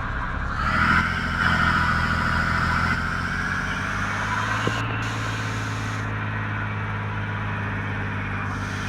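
Mercedes truck's engine running while on the move, picking up about a second in, with a steady higher whine over the low engine hum.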